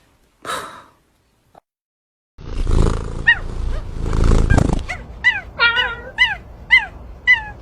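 A dog gives a run of short, high yelps, each sliding down in pitch, about two a second through the second half. Before them comes a loud, rough rushing noise.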